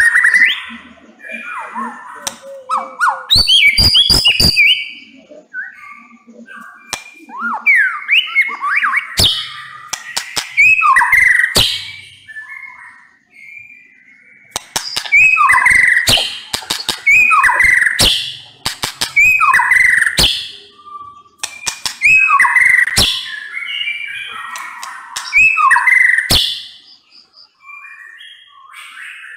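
White-rumped shama singing loudly in repeated bouts of varied, gliding whistled phrases mixed with sharp clicking notes, with quieter spells between the bouts.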